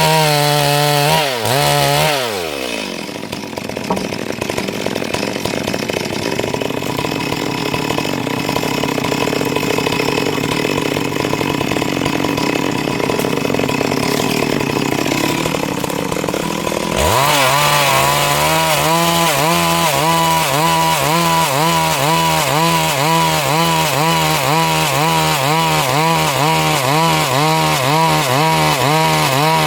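Stihl MS 382 two-stroke chainsaw ripping a Siris log into boards. About two seconds in, its pitch drops as it takes the cut and it labours in the wood. About seventeen seconds in it comes free and revs up high, its pitch wavering.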